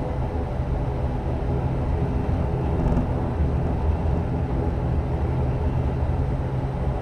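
Inside the cabin of an ATR turboprop airliner: the steady drone of the engines and propellers with a low rumble, as the aircraft takes off.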